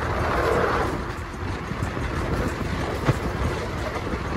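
Passenger train running along the track, heard from on board as a steady low rumble of wheels on rail. There is a louder rush of noise in the first second and a single sharp click about three seconds in.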